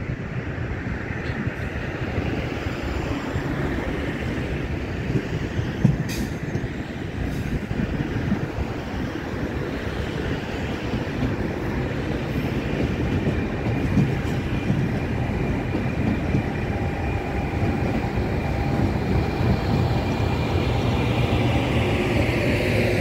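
Two passenger trains rolling through a rail yard, one a red regional train: a steady rumble of wheels on rails with a few sharp wheel clicks over points. A thin high tone rises during the second half.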